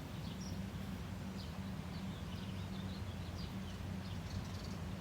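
Small birds chirping now and then, short high calls scattered through, over a steady low hum.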